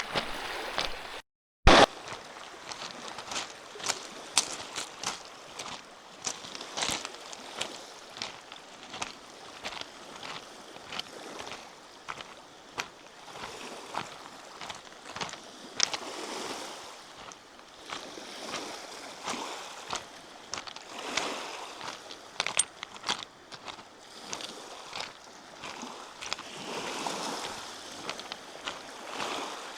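Lake Michigan waves washing on the shore, a steady noisy wash with footsteps crunching on the trail as irregular sharp ticks. About a second and a half in, the sound drops out briefly and comes back with a sharp click.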